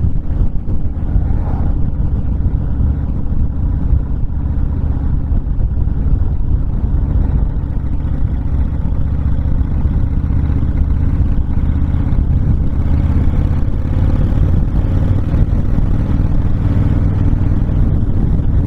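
Honda VTX1300 V-twin motorcycle running steadily at road speed, with wind rushing past the open-faced rider.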